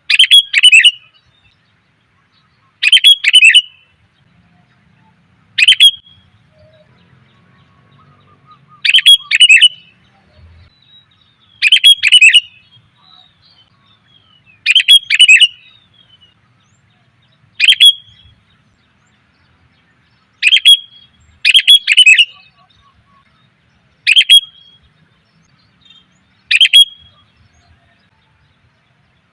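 Female sooty-headed bulbul (kutilang) calling in short, loud bursts of a few quick chattering notes, repeated about every two to three seconds. It is a female's luring call, used to draw in males.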